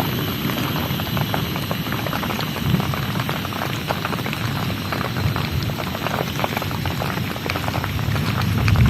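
Heavy rain falling steadily, a dense stream of small drop impacts.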